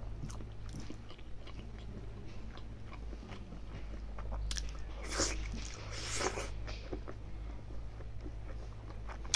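Close-miked chewing and biting of a person eating mithun skin curry with rice by hand, with scattered short clicks and a few louder chewing sounds about halfway through.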